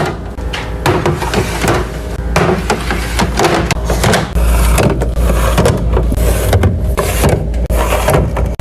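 Close-up handling sounds of restocking and organizing: a quick run of clacks, knocks and rustles as containers, lids and packaging are set down, opened and arranged.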